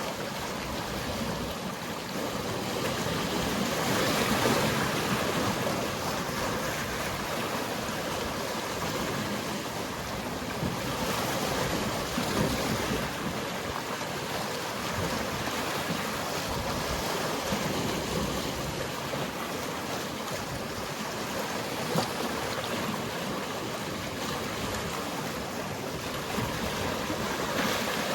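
Mediterranean sea waves washing in: a steady rush of surf that swells louder a few times, with one brief sharp knock about three-quarters of the way through.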